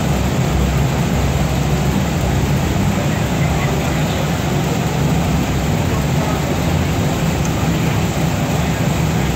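Car engine idling steadily on a chassis dyno, a loud, even low rumble with no revving.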